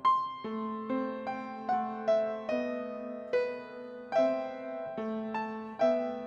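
Piano playing a slow, gentle melody: notes struck about once or twice a second over held lower notes, each ringing and fading away.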